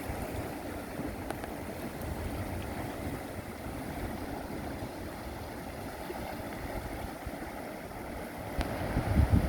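Sea waves washing and breaking on the shore, a steady rushing noise, with wind buffeting the microphone in heavier gusts about nine seconds in.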